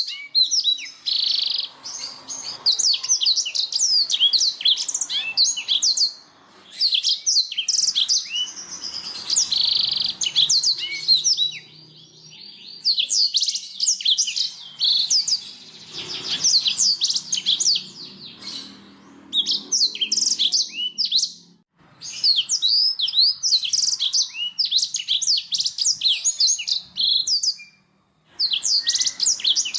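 Domestic canary singing long phrases of rapid, high-pitched trills and chirps, with short pauses between phrases.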